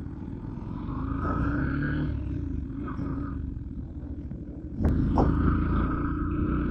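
Motorbike engine running while riding, with wind rushing over the microphone. The engine note rises about a second in. Near the end there is a click and the rush gets suddenly louder.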